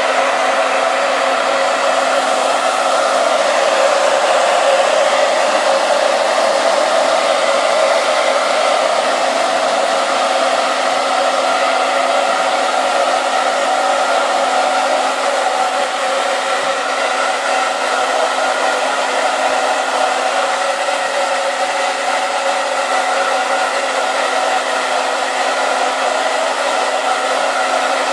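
Hair dryer running steadily, a constant rush of air over the even hum of its motor.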